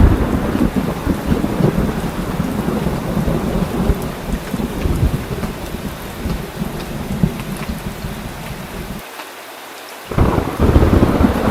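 Heavy rain with rolling thunder. The low rumble slowly dies away over several seconds, leaving a brief thinner stretch of rain, then a fresh loud peal of thunder comes in about ten seconds in.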